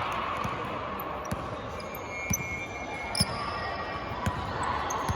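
A basketball being dribbled on an indoor court, a dull bounce about once a second, with sneakers squeaking on the floor in short bursts partway through and near the end.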